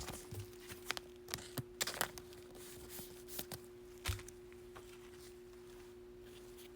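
Trading cards being handled and flipped through by hand: scattered soft taps and clicks, over a steady low hum.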